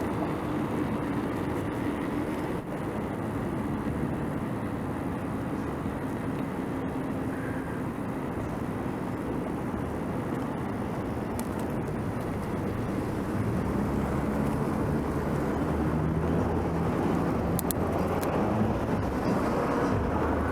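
Steady street traffic and road noise heard from a moving bicycle, with a vehicle's engine hum getting louder in the second half.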